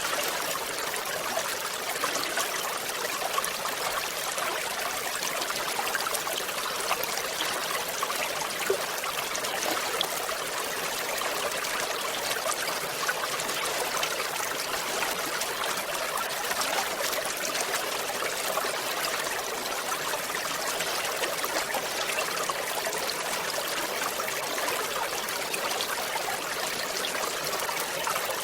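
Water running and splashing over a small river cascade: a steady, unbroken rushing hiss, mostly high and light with little deep rumble.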